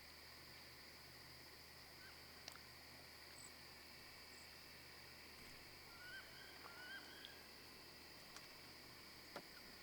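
Faint dusk marsh ambience: a steady high-pitched insect chorus, with two short faint bird calls about six and seven seconds in and a few soft clicks.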